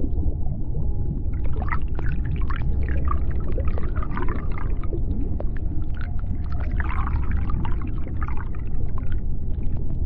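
Underwater sound: a steady deep rumble with scattered sharp clicks, and two spells of squeaky, chirping calls, the first starting about a second and a half in and the second in the latter half.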